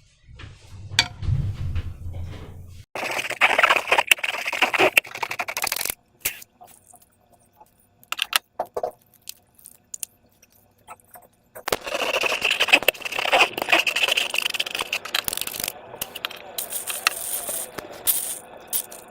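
Hands handling balloons and slime-making materials: two long stretches of crinkling, rustling noise with sharp little clicks, and scattered clicks and taps between them.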